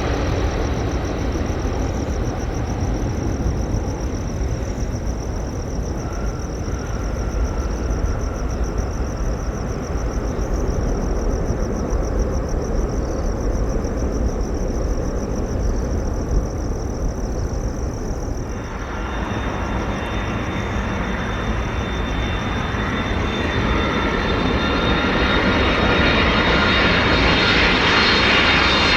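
Jet airliner engines: a Boeing 777-300ER's GE90 engines running steadily after landing, then, after a sudden change about two-thirds through, a Boeing 767-200F freighter approaching, its engine whine and rumble growing louder toward the end.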